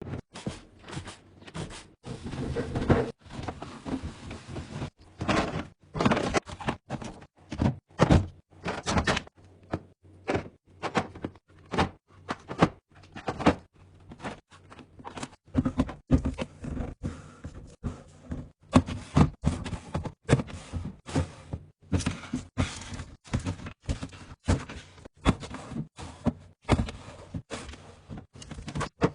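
Food and drink containers being set down and arranged on refrigerator shelves: a dense run of short knocks and thunks, several a second.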